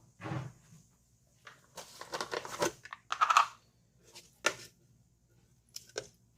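Several short bursts of scratchy, crinkling handling noise with pauses between them, from a brush and petrol being used on a water-damaged laptop motherboard.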